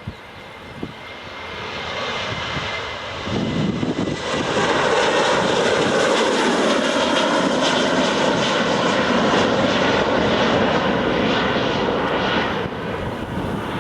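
Boeing 747-400 jet airliner's engines: the sound builds over the first few seconds to a loud, steady rush, then drops off abruptly near the end.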